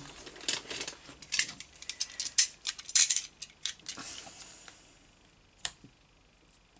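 A craft knife and ruler trimming paper on a desk: a quick run of clicks, taps and scrapes, with one more sharp click near the end.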